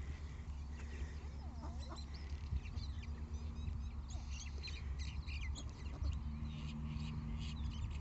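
Small birds chirping and twittering, many short high calls crowding together from a few seconds in, over a steady low rumble.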